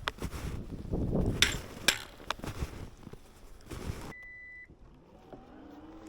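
Snowshoes crunching through fresh snow in an irregular walking rhythm for about four seconds. The crunching stops suddenly and a short electronic beep sounds, followed by a faint low hum that rises slightly and then holds steady.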